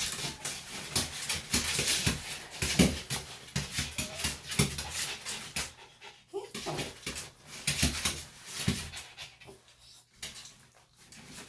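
Small senior Bichon–Shih Tzu dog panting and giving a few short whimpers while he squirms against being held, with irregular rustling and scuffling of fur and hands.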